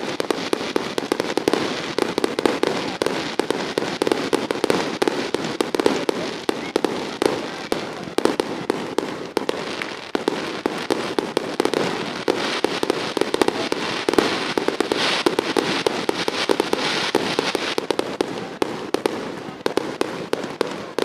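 Fireworks going off in a dense, continuous barrage of rapid bangs and crackles, many a second.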